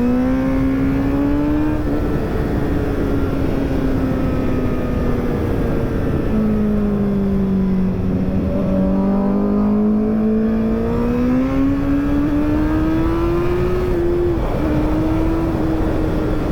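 Inline-four sportbike engines running under way at a cruise, their note slowly dipping and rising with the throttle, with a break about five seconds in where it comes back lower, over steady wind noise.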